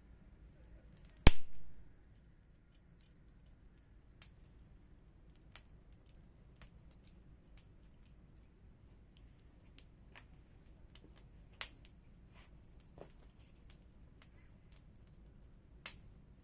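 Firewood burning and crackling: scattered small ticks and snaps, with one loud pop about a second in and two sharper snaps later.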